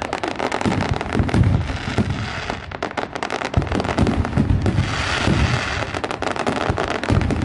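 Fireworks going off: a dense run of sharp crackles and pops over repeated low booms, one every second or so.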